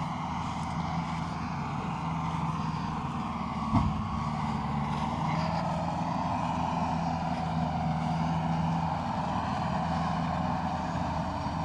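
A vehicle engine running steadily, with a single short thump about four seconds in.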